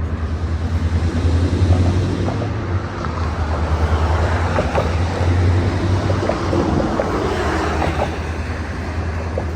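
Diesel locomotive engine running with a steady, deep throb. Its sound grows louder and more clattery through the middle as the locomotive works.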